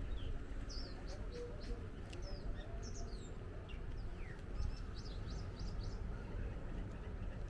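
Small birds chirping: many short, high chirps and quick downward notes, thickest in the middle, over a steady low rumble.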